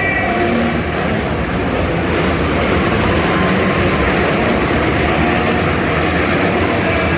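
Several dirt bike engines running together in a loud, steady din, with faint revs rising and falling.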